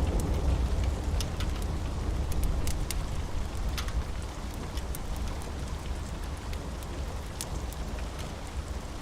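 Steady rain with a deep thunder rumble dying away over the first few seconds, and scattered sharp crackles from a wood fire.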